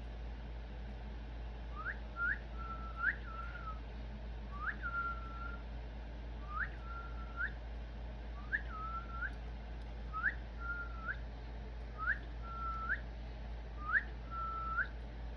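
Cockatiel whistling a short repeated phrase, a quick upward slide into a held note, sometimes ending with another upward flick, about once every two seconds, starting about two seconds in. A steady low hum runs underneath.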